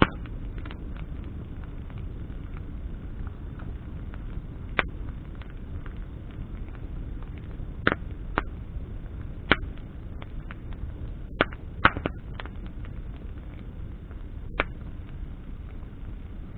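Wood campfire burning, with sharp crackles and pops at irregular intervals over a steady low rumble; a cluster of louder pops comes about two-thirds of the way through.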